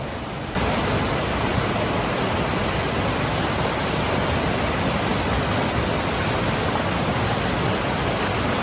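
Steady rushing of falling water from a waterfall, jumping louder about half a second in.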